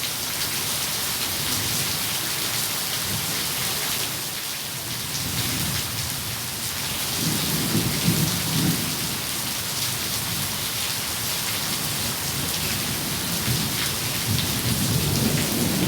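Steady heavy rain hissing, with low rolling thunder swelling about halfway through and again near the end.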